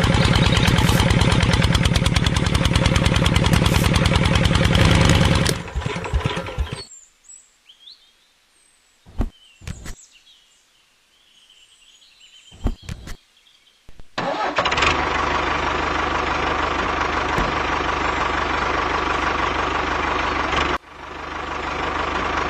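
Toy tractor engine-like running sound, fast and even, that fades out, with a few clicks in the quiet. It starts up again and runs steadily, cuts off briefly, and builds again near the end.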